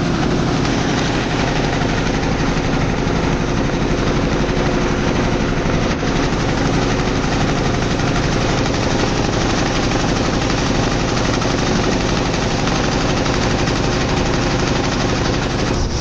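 Motorboat engine running at a steady, unchanging speed.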